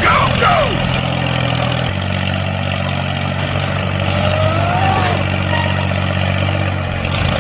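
Mini tractor's engine sound running steadily, its pitch shifting slightly about two seconds in, with a few high squeaky sliding tones over it near the start and again later.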